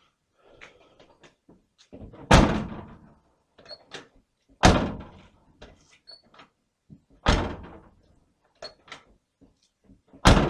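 Door of a 1981 GMC C10 pickup being shut four times, about every two and a half seconds, each a solid slam with a short decaying rattle, with lighter clicks between as it is opened again. The latch striker post has been sleeved in PEX tubing to make the door close smoother.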